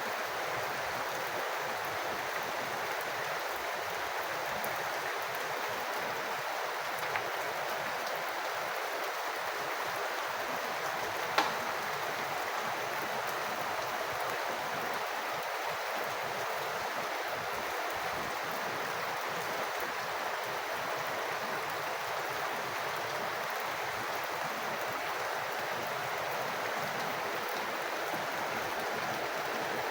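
Steady rain falling as an even, dense hiss of water. One sharp tap stands out about eleven seconds in, with a fainter one a few seconds earlier.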